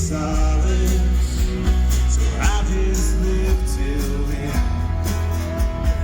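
Live acoustic country band playing a mostly instrumental passage: strummed acoustic guitar over a steady, deep bass line, with a brief sliding note about two and a half seconds in.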